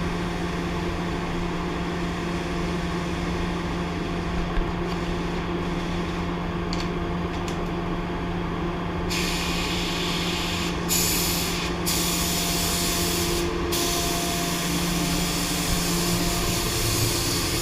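Steady low hum, then about nine seconds in a compressed-air paint spray gun starts spraying with a loud hiss. It sprays in passes broken by three short gaps as the trigger is released, then runs on continuously.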